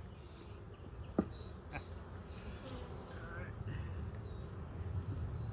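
Honeybees buzzing steadily around an opened hive, with two short sharp clicks a little over a second in.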